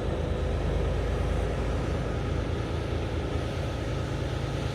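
Semi-truck diesel engine running steadily, a low rumble heard from inside the cab as the tractor-trailer moves slowly through a yard.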